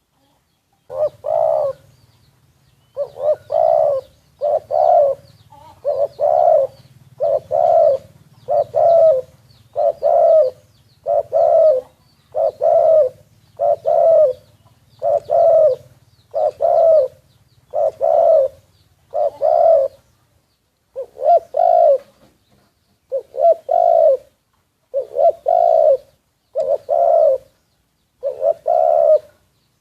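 Spotted dove cooing, a steady series of low coo phrases about one a second, with a short break about two-thirds of the way through. A faint low hum runs underneath for the first two-thirds.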